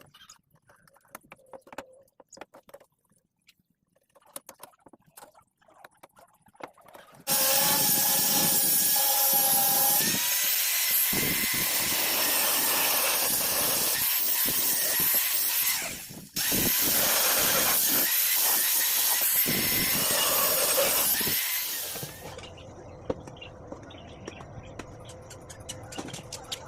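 Faint light clicks and taps, then an electric power tool starts suddenly and runs loud and steady on steel for about fifteen seconds, with a short break partway through. After it stops, a quieter steady noise carries on.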